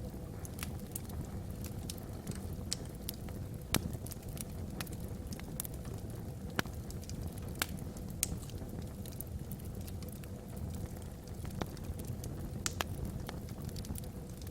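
Wood fire burning in a fireplace: logs crackling with irregular sharp pops, a few louder snaps, over a steady low rumble.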